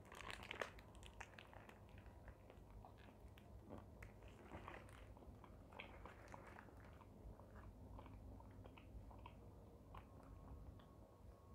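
A bite into crispy fried chicken, then faint chewing with small crunches of the coating.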